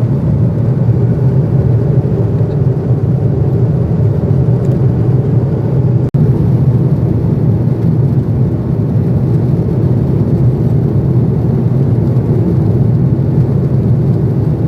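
Steady, loud low rumble of an airliner's cabin noise in flight, engines and rushing air, with a momentary dropout about six seconds in.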